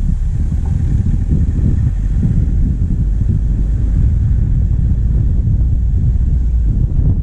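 Diesel engine of a vehicle running on the move, a steady low rumble picked up by a camera mounted on the bonnet.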